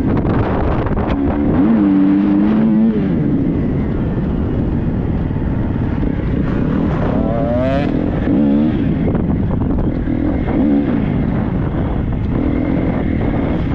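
Triumph 250 motocross bike's single-cylinder four-stroke engine being ridden hard, its pitch rising and falling again and again as the throttle is worked and gears change, with one sharp rev about halfway through.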